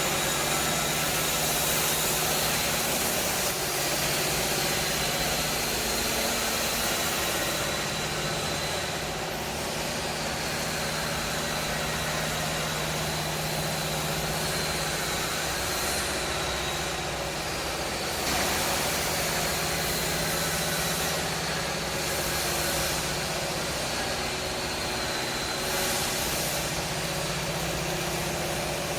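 Heavy truck-mounted crane's diesel engine running steadily, with a thin high whine above it that wavers slightly in pitch.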